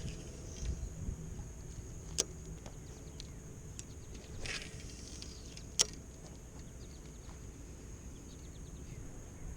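A steady high-pitched insect drone over a low rumble of wind and water, with two sharp clicks, about two seconds and about six seconds in, and a short rustle in between.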